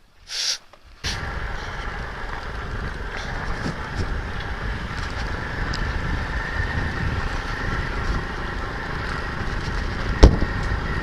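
Pitbike's 125cc single-cylinder four-stroke engine running steadily at low revs, starting abruptly about a second in. A single sharp knock comes near the end.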